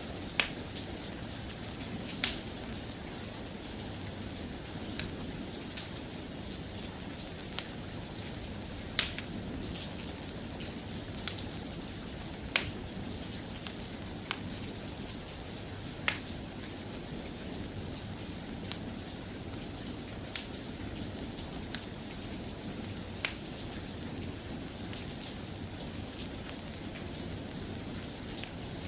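Soft, steady rain, with sharp single clicks scattered irregularly a few seconds apart.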